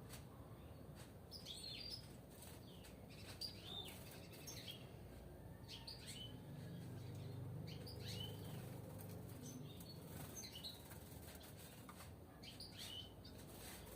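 European goldfinches chirping in a cage: short, quick chirps and calls scattered irregularly throughout, over a faint low background hum.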